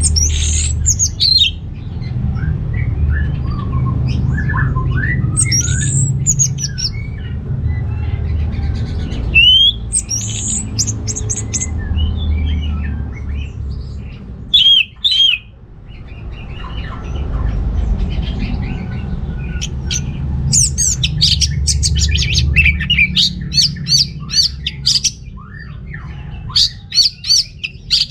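Orange-headed thrush singing in full voice: varied whistled and gliding phrases, breaking about two-thirds of the way through into a fast run of sharp repeated notes. A steady low rumble runs underneath.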